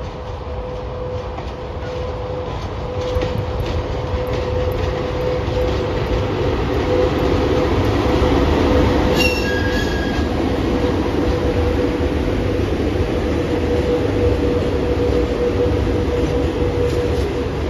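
A VL80S AC electric freight locomotive passing close by with a freight train, with a steady hum over the heavy rumble of wheels on rail. The sound grows louder as the locomotive approaches and passes, about eight seconds in, then holds as the tank wagons roll by. A brief high-pitched squeal comes near the middle.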